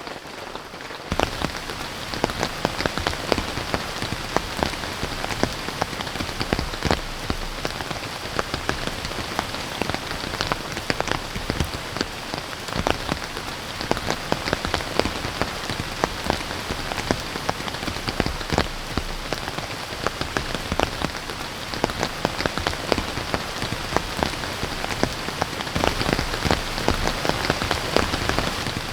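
Steady heavy rain, with many sharp individual drop impacts ticking through it, getting louder about a second in.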